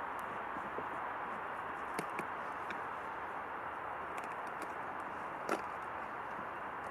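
Steady even background noise with a few faint clicks, and a light knock about five and a half seconds in.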